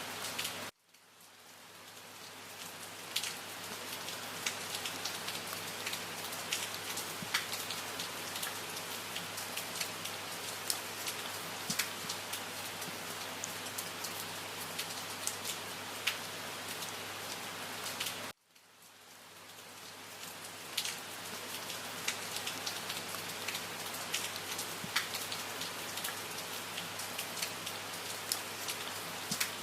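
Steady rain falling, with individual drops ticking sharply through it. Twice, under a second in and again about 18 seconds in, the rain cuts out suddenly and fades back up over two or three seconds.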